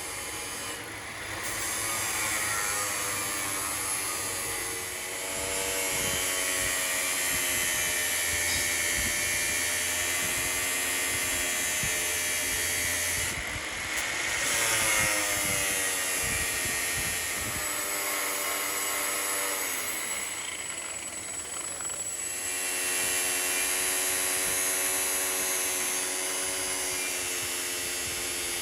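Metalworking machine in a workshop running with a steady motor whine over a high hiss. Its pitch glides up and down a few times as it speeds up and slows down, and the sound changes abruptly a few times.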